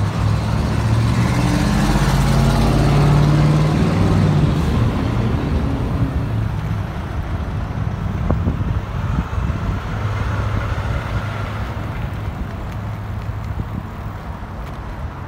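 A motor vehicle's engine passing and accelerating, its pitch rising over the first few seconds and then fading away, over a steady low rumble of wind on the microphone.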